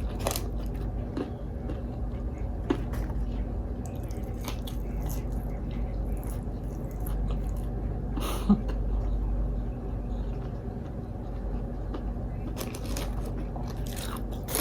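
Close-miked eating: crunchy bites and chewing of Wingstop fried food, with scattered crackles and one sharper crunch a little past the middle, over a steady low hum.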